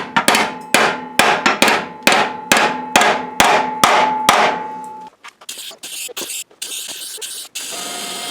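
Hammer striking a steel frame patch about twice a second, each blow ringing metallically, to close a small gap. The blows stop about five seconds in; a few light knocks follow, then a steady machine hiss with a faint hum starts near the end.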